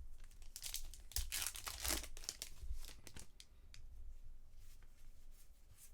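A foil trading-card pack being torn open and its wrapper crinkled, with a run of tearing and crackling strongest in the first two seconds, then lighter rustling.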